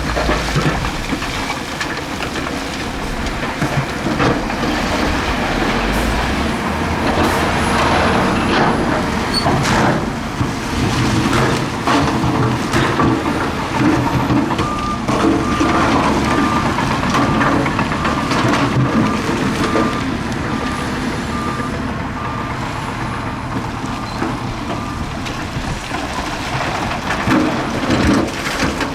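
Heavy diesel earthmoving machinery running under load, with scattered metallic knocks. From about halfway to near the end, a reversing alarm beeps steadily at an even pace.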